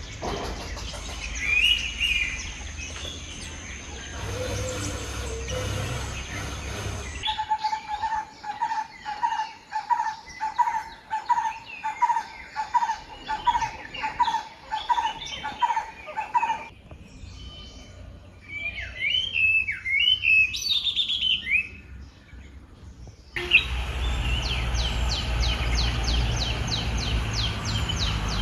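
Wild birds calling, in several short takes. First scattered chirps. Then one bird repeats a single clear note about twice a second for some nine seconds, followed by a quick run of warbling chirps. Near the end comes a fast, high ticking trill over a low rumble.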